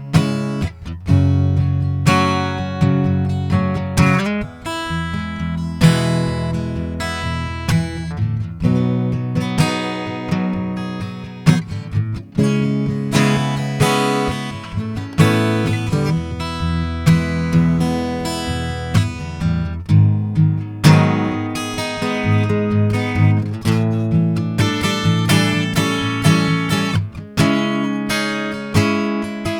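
Acoustic guitar strumming chords, played as an instrumental passage with no singing.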